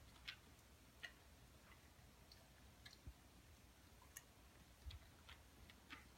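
A dog chewing at water in its bowl instead of lapping it: faint, irregular wet clicks of its jaws and teeth, about one or two a second, with a couple of soft low knocks.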